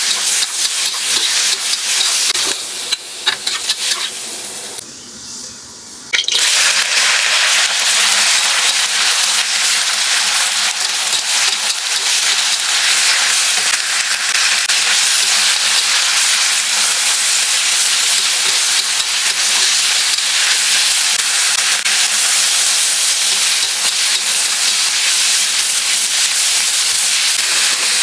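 Food frying in hot oil, a loud steady sizzle. It drops away for about a second some five seconds in, then comes back suddenly at full strength.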